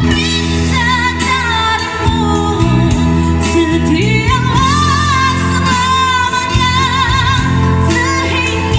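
A woman singing a slow pop ballad with band accompaniment, holding long notes with vibrato in the middle of the phrase.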